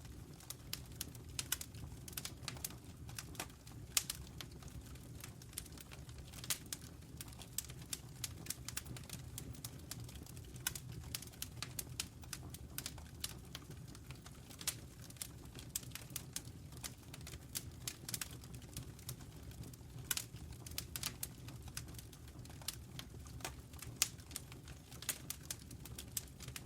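Wood fire crackling in a fireplace: an irregular run of sharp snaps and pops, several a second with some louder ones, over a low steady rumble.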